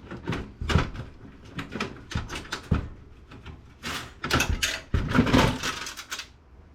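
Clattering and knocking of desktop computer parts being handled and set down, a quick run of irregular knocks that stops about six seconds in.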